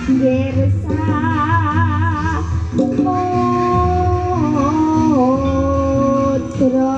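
A young girl singing in Javanese sinden style over instrumental accompaniment, holding long notes: one with a wide vibrato early on, then a long steady line that steps down in pitch twice.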